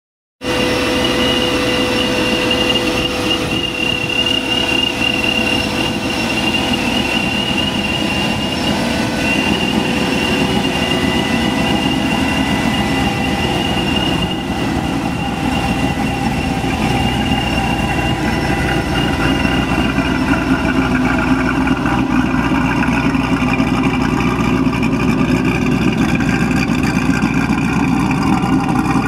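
1998 Chevrolet Corvette C5's Procharger-supercharged LS1 V8, with aftermarket heads, cam, headers and Corsa exhaust, running steadily. Thin high whines sit over the low exhaust note.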